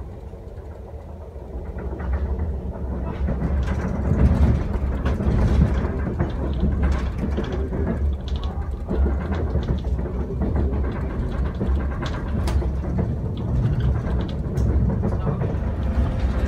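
SNCF TER regional train running on the line, heard from inside the carriage: a steady low rumble of wheels on rail with scattered clicks and knocks, growing louder about two seconds in.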